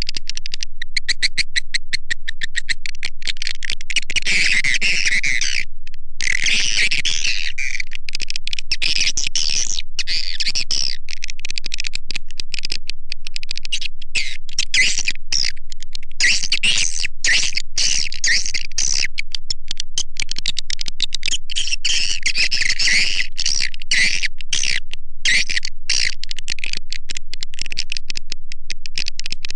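Recorded swiftlet call-lure track: edible-nest swiftlets giving rapid high clicks and twittering chirps without a break, denser in stretches. It is the kind of call sound played from swiftlet houses to draw the birds in to roost and nest.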